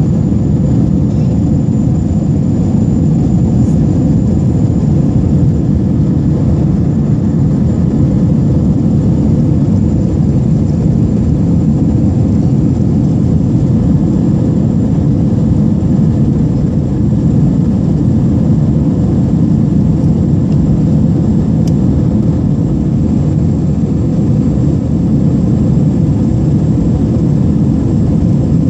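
Steady engine and airflow noise of an airliner in flight, heard from inside the passenger cabin: a low, even rumble with a faint high whine above it.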